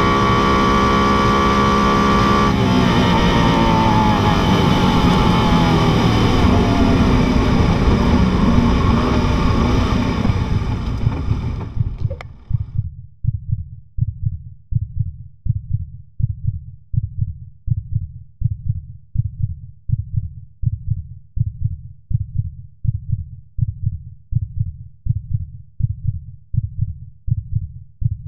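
Koenigsegg Agera RS twin-turbo V8 heard from inside the cabin, holding a steady high note. About two and a half seconds in the note drops and keeps falling as the car slows from top speed, then fades out. From about halfway on, low heartbeat-like thumps repeat at an even pace.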